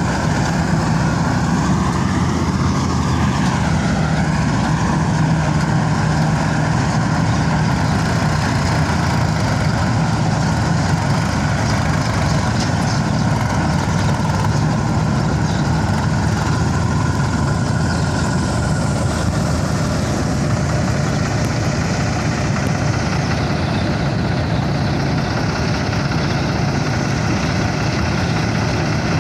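Diesel engines of a combine harvester and tractor running steadily while harvesting paddy, a deep drone with a thin high whine that wavers during the first few seconds.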